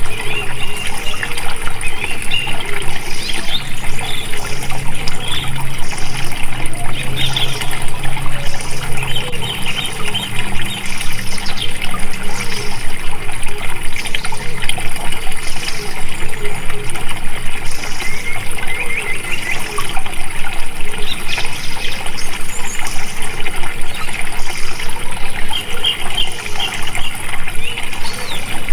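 Water flowing and trickling steadily, an even rushing splash.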